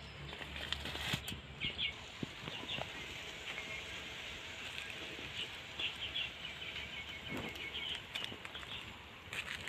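Small birds chirping over and over, with light rustling and a few sharp clicks.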